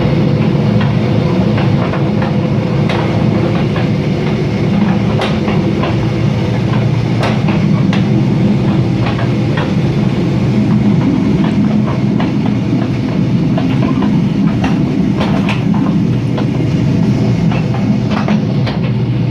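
A train running along the track with a steady rumble, broken by frequent irregular sharp clicks and creaks from the wheels and rails.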